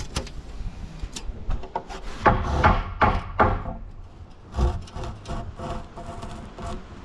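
Rasping strokes on timber: four in quick succession, about three a second, from about two seconds in, with scattered knocks and scrapes of wood around them.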